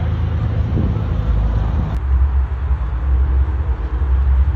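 Steady, loud low rumble of a car on the move. About two seconds in the sound changes abruptly and the rumble deepens.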